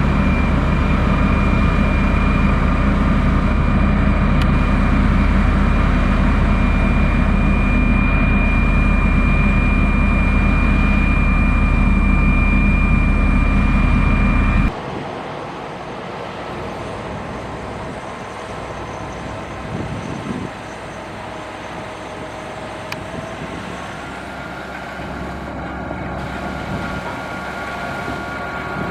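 Heavy diesel engine of a motor grader running steadily close by, a deep rumble with a steady high whine. About halfway through the sound drops suddenly to a quieter, more distant engine hum.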